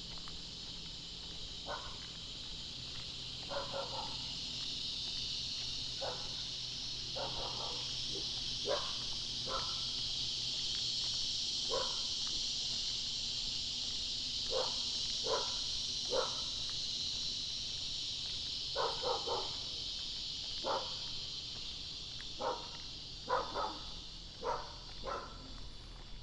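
A dog barking repeatedly, in short irregular barks, some in quick pairs, over a steady high drone of insects.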